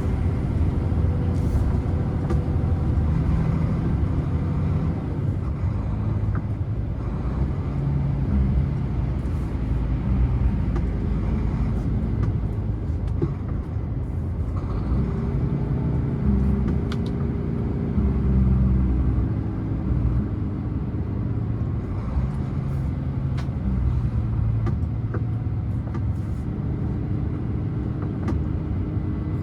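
Scania truck's diesel engine running on a long downhill mountain road, with a steady rumble of road noise; the engine note shifts in pitch now and then.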